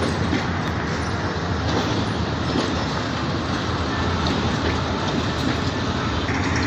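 Passenger train coaches rolling slowly along the tracks, a steady rumble of wheels on rail.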